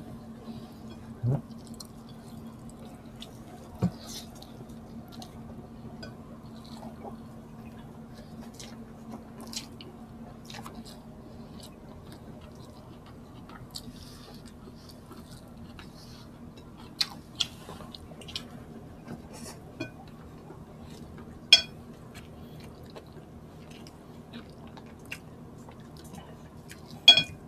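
Close-up eating sounds of two people eating pork sisig, rice and fried tilapia with their hands: chewing, with scattered sharp clicks and crackles, a few of them louder, over a faint steady hum.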